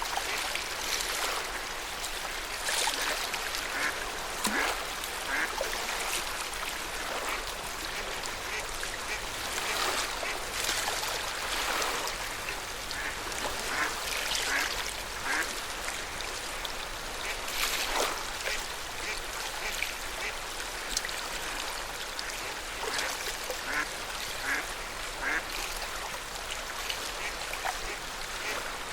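Lake water lapping and splashing softly at the shoreline in an uneven rhythm, with scattered short waterbird calls throughout.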